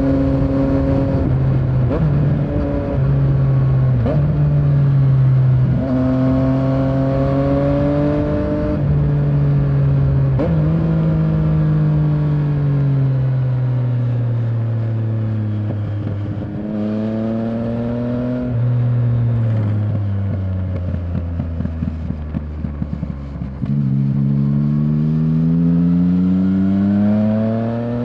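Yamaha Tracer 900's 847 cc inline-three engine on the move: it pulls up through the gears with the pitch stepping down at each shift, then winds down on a closed throttle, running unevenly for a few seconds while slowing, and climbs hard again near the end as the bike accelerates.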